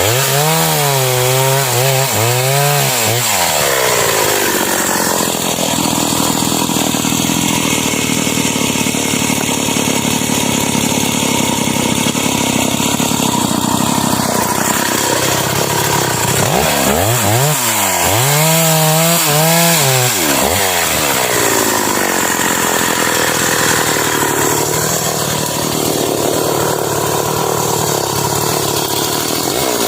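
Stihl MS 381 two-stroke chainsaw cutting into a large sengon (albizia) trunk. Its engine pitch rises and falls near the start, again from about 16 to 20 seconds in and at the end, with a long steady stretch in between.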